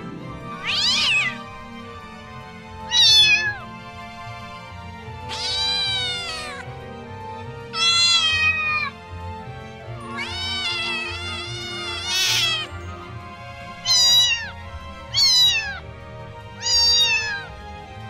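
Domestic cats and kittens meowing: a string of about nine separate high-pitched meows, each rising then falling in pitch and lasting up to about a second and a half, a second or two apart, over background music.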